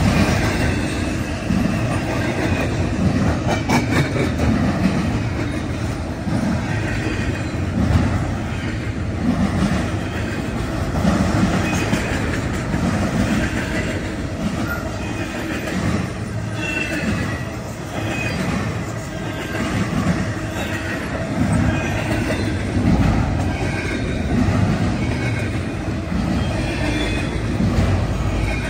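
Norfolk Southern double-stack intermodal train's well cars rolling past: a steady rumble and rhythmic clatter of steel wheels over the rail, with faint high wheel squeals now and then.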